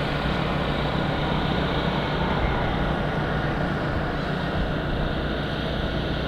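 Steady rushing, wind-like noise, heaviest in the low range, with no engine running: an aerobatic light plane gliding with its engine shut off, heard from the ground.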